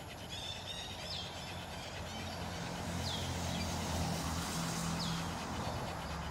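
A bird repeats a short, falling call about every two seconds over a low rumble of traffic, which grows louder midway and then eases.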